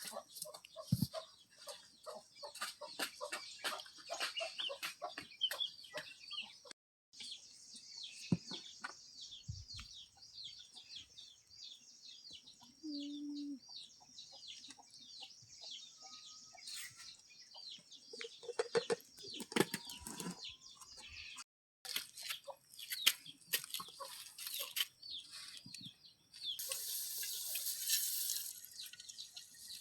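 Free-range chickens clucking over dense, rapid high chirping, with scattered clicks and knocks and a short rush of hiss near the end.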